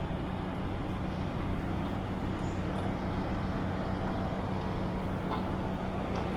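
Steady low hum with air rush inside an Airbus A320's cabin, the even drone of the aircraft's systems and air conditioning while it stands before departure.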